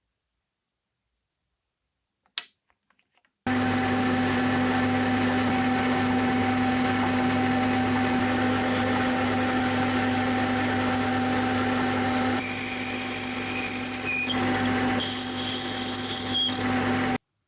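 A workshop power tool running steadily with a constant hum and whine, starting abruptly after a single click and cutting off suddenly near the end.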